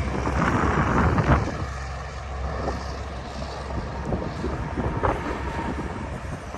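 Outdoor traffic rumble from big trucks moving around the truck stop, loudest in the first second or so and then fading to a steady hiss, with wind buffeting the microphone.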